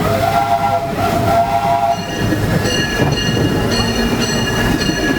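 Disneyland Railroad steam train rolling along, a steady rumble heard from aboard. From about two seconds in, high pitched tones come and go over it in a rhythmic, tune-like pattern.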